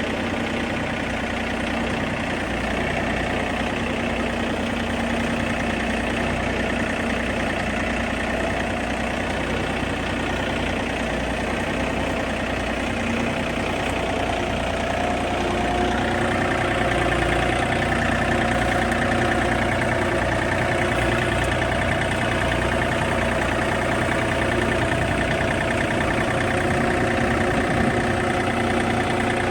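John Deere tractor engine running steadily while it moves a deer stand, getting a little louder about halfway through.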